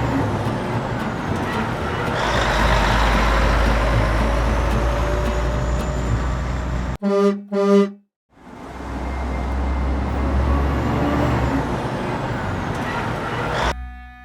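Truck engine running with a steady rumble, broken about seven seconds in by two short horn toots. The rumble then resumes and cuts off suddenly just before the end.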